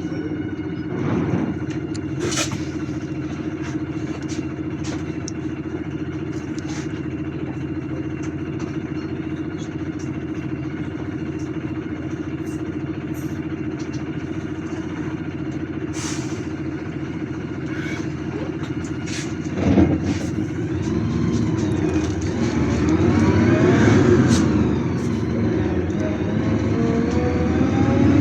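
City bus engine heard from inside the cabin, running steadily with rattling clicks, then a knock about twenty seconds in and the engine revving, its pitch rising and falling as the bus speeds up.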